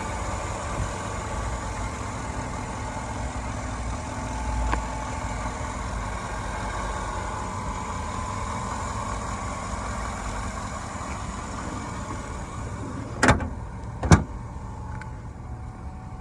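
2007 Chevy Avalanche Z71's V8 engine running steadily. Two sharp knocks come about a second apart near the end and are the loudest sounds.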